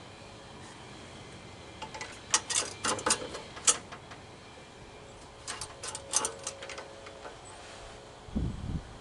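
Sharp clicks and light rattles of the mower engine's oil fill cap and dipstick being handled while the oil level is checked, in two short bursts, followed near the end by a few low dull thumps.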